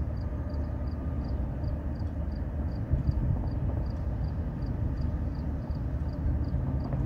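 Low, steady rumble of an approaching diesel freight train not yet in sight, with a faint high chirp repeating about three times a second from an insect or bird.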